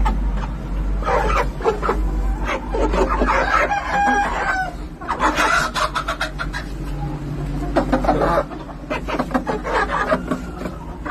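Peruvian roosters crowing again and again, with hens clucking among them, over a steady low rumble that falls away about eight seconds in.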